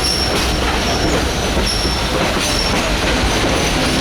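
Excursion passenger train rolling along the track, with a steady rumble and rattle of the cars. Short, high-pitched wheel squeals recur about every second.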